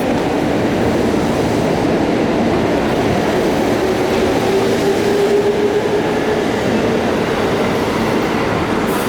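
Keiyo Line commuter train running between stations, heard from inside the car: a steady rumble of wheels on rail, with a faint motor whine about halfway through.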